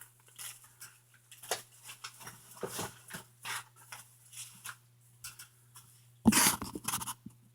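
Scattered small clicks and rustles of radio gear being handled, over a steady low hum. A louder, fuller sound lasts about a second near the end.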